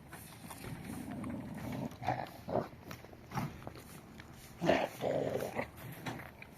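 Animal calls in several short, irregular bursts, the loudest a little before five seconds in.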